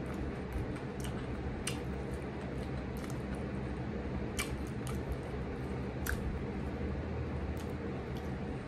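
Close-miked chewing of a shrimp taco: soft wet mouth sounds with a few sharp smacking clicks, over a steady low background hum.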